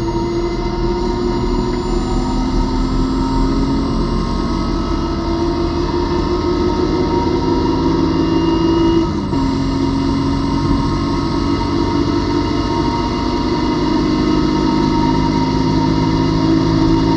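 BMW E36 M3 race car's straight-six engine heard on board, pulling hard at speed. Its pitch climbs slowly, dips sharply about nine seconds in as it shifts gear, then holds high again.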